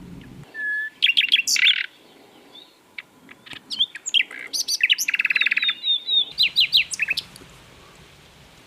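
Common nightingale singing. A short held whistle is followed by a burst of quick high notes. After a brief pause comes a longer phrase of varied notes with a fast rattling trill and a run of repeated down-sweeping notes, ending about seven seconds in.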